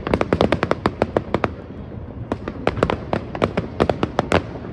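Fireworks going off in fast runs of sharp bangs and crackles, with a short lull a little before the middle before the bangs pick up again.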